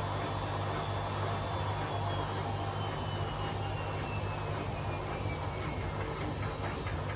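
Two Hotpoint Aquarius washing machines (WMA37 and WMA48) spinning, with a steady low hum and rushing noise. Over it a motor whine falls slowly in pitch as one drum's speed drops.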